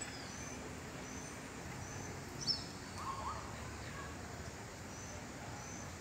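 Forest birds calling: a short high note repeated about twice a second, and a sharp falling chirp about two and a half seconds in, over steady background noise.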